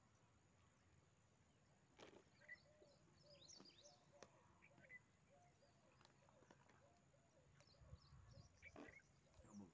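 Faint birdsong: small birds chirping and twittering at intervals, with a lower call repeating over and over from about two seconds in, and a few soft clicks.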